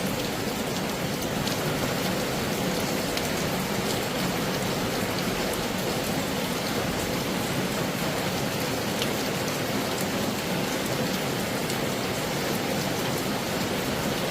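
Heavy rain falling steadily, with many individual drops landing as sharp ticks over the even rush.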